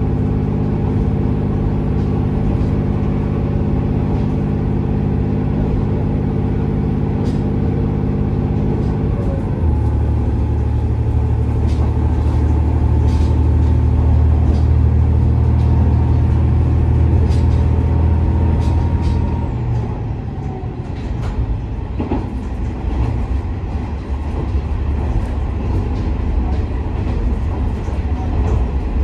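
JR West KiHa 47 diesel railcar under way, heard from inside: its diesel engine drones steadily, shifts to a deeper, louder drone about ten seconds in, then eases off about two-thirds of the way through, leaving the rumble of wheels on rail with occasional clicks.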